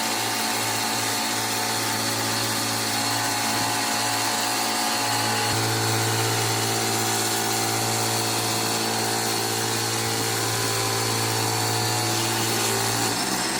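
A pressure washer's motor and pump run steadily with a low hum, the note shifting about five seconds in. Near the end the sound changes as the recirculated water supply runs out.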